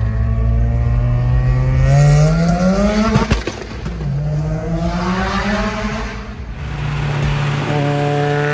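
Mazda RX-7 FD's rotary engine revving hard: the revs climb, break off with a short burst of crackling, climb again, then hold steady near the end.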